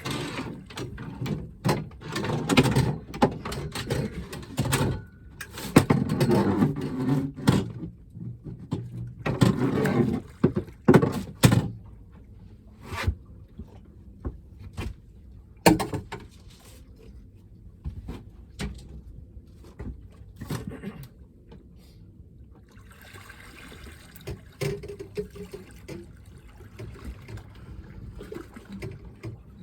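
Handling noise on a small fishing boat as a landing net is got out and used: repeated knocks and clatter of gear against the boat, loudest and busiest in the first dozen seconds, then quieter scattered clicks.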